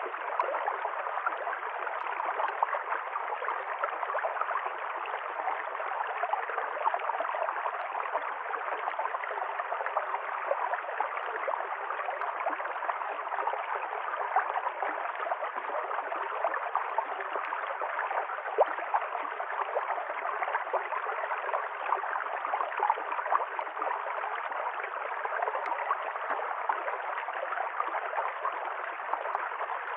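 River stream running over rocks: a steady gurgling and splashing rush of water.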